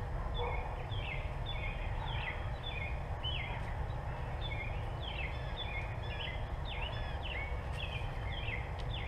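Small birds chirping over and over, short chirps that slide downward in pitch, several a second, over a steady low rumble.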